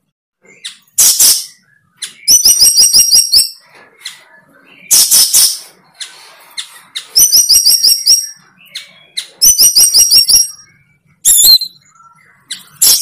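A bird calling loudly and close by: quick trills of repeated high chirps, about eight a second, alternating with short harsh rasps, several times over.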